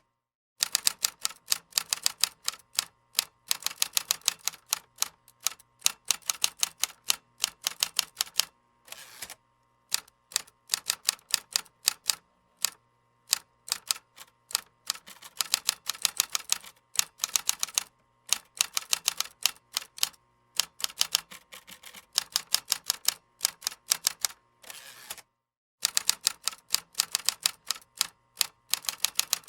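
Keyboard typing: quick runs of key clicks, several keystrokes a second, broken by short pauses between bursts.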